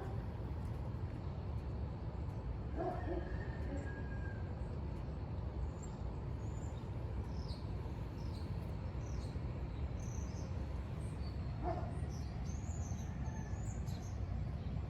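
Small birds chirping in short high calls over a steady background rumble and hiss. A couple of lower, drawn-out calls come about three seconds in and again near twelve seconds.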